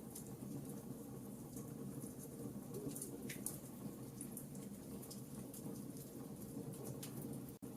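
Wood fire crackling, with irregular sharp pops and snaps over a low, steady rumble of burning. The sound cuts out for an instant near the end.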